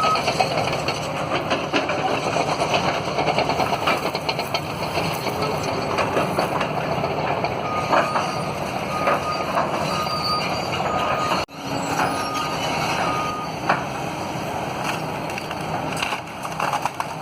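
Heavy demolition machinery running loudly. Midway its backup alarm sounds a series of short, same-pitched beeps, about one a second.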